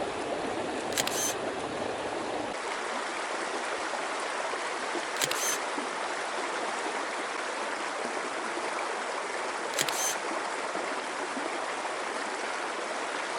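Three camera shutter clicks about four seconds apart as still photos are taken, over the steady rush of a small creek.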